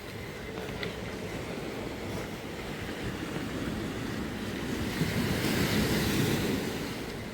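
Sea surf washing on a beach, with a wave swelling to its loudest about five seconds in and easing off near the end.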